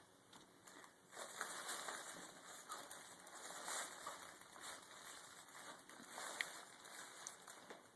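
Faint, irregular rustling and scratching of a cat rolling and rubbing in catnip on its play structure.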